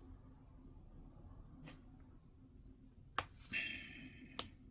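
Faint handling of plastic model-kit parts: a few sharp plastic clicks as pieces are picked up and pressed together, with a brief scrape shortly before the end.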